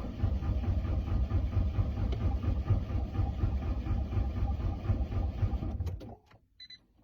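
1.9 TDI diesel engine being cranked over by its starter for about six seconds, a fast, even churning that cuts off suddenly without the engine catching. This is a sub-zero cold start with no glow plugs and a blown head gasket.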